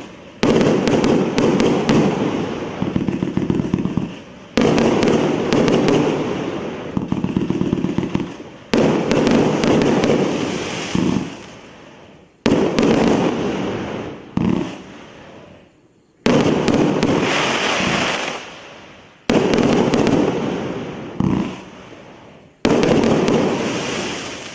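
A 348-shot 'Президент' firework cake firing in a string of volleys, about seven in all. Each volley starts suddenly with a dense run of shots and bangs, then dies away over three to four seconds before the next one sets off.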